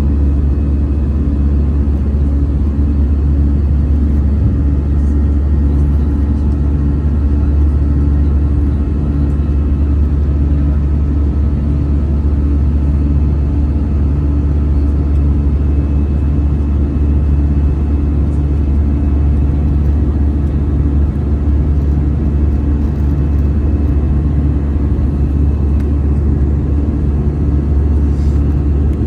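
Steady cabin drone of a jet airliner, heard from inside: a loud, even low rumble of engines and airflow with a faint hum on top, unchanging throughout.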